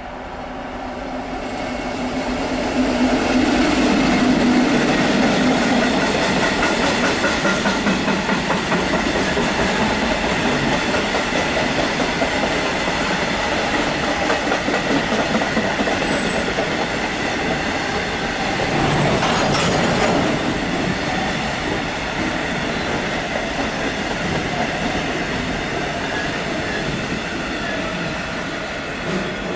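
Diesel-hauled freight train passing close by. The locomotive's engine hum swells and is loudest a few seconds in, then a long rake of covered freight wagons rattles past with a steady clickety-clack of wheels on the track.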